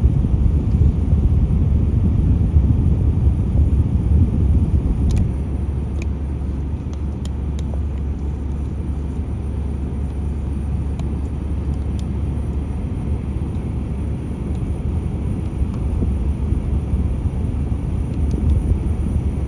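Steady low rumble of a vehicle engine running, easing a little about five seconds in, with a few faint clicks.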